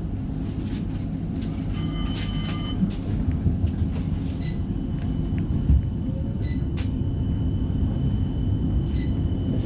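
CAF Urbos 3 tram pulling away from a stop, heard from inside: a steady low rumble of running gear and wheels on rail. A brief beep about two seconds in, and a thin steady high whine from about halfway on.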